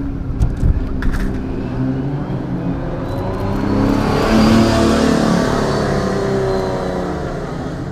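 Yamaha OX99-11's V12 engine running as the car drives by, growing to its loudest around four to five seconds in and then easing off. A few sharp clicks come about a second in.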